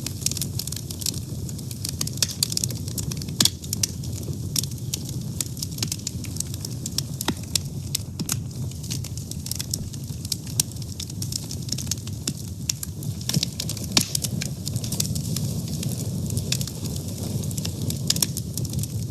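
Wood fire burning: a steady low rumble of the flames with many sharp crackles and pops from the burning wood.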